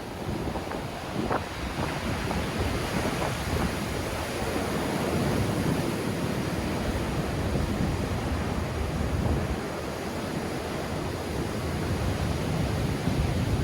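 Sea waves breaking and washing on the shore in strong wind, with wind buffeting the microphone. The surge swells a few seconds in and stays up.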